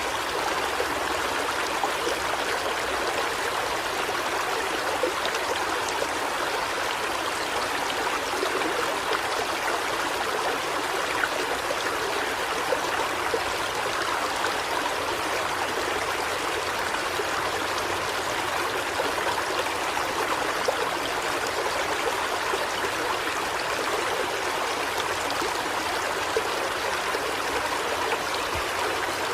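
River water flowing steadily over rocks, an even rushing with light trickling and no pauses.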